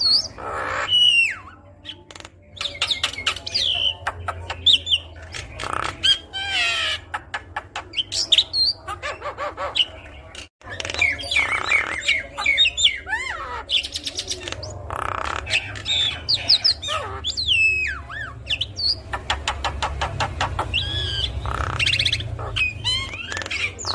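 Javan myna singing a varied, busy song of whistled glides, rapid rattling trills and harsh grating notes, with a steady low hum underneath.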